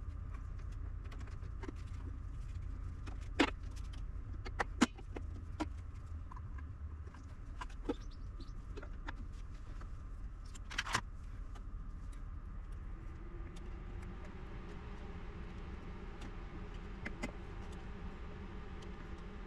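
Scattered sharp clicks and taps of parts and tools being handled on a workbench, over a steady low hum. A faint steady tone comes in about two-thirds of the way through.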